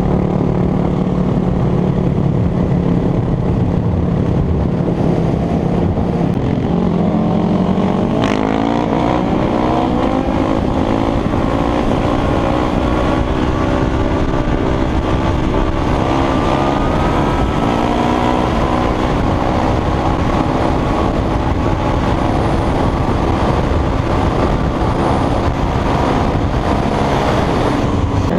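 Motorcycle engine running at a steady note, then about eight seconds in revving up and running at higher revs, its pitch rising and dipping as the bike accelerates. Under it is a constant rushing noise.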